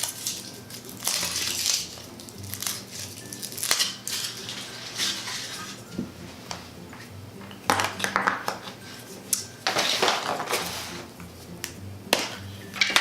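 Foil wrapper of a Kinder Surprise chocolate egg crinkling as it is peeled off by hand, with the chocolate shell and the plastic toy capsule cracked open. The crinkling and cracking come in irregular bursts, louder about a second in, around four, eight and ten seconds in, and near the end.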